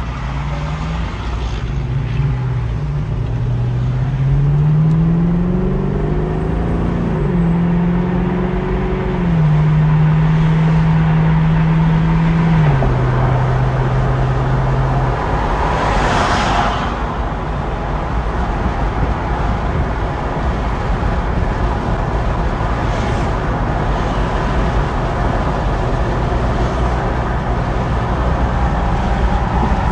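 The Camaro SS's 6.2-litre V8 running under way: its pitch climbs over the first several seconds, holds steady, then steps down and fades out about fifteen seconds in. After that it is mostly steady road and wind noise, with a brief rush of noise about sixteen seconds in.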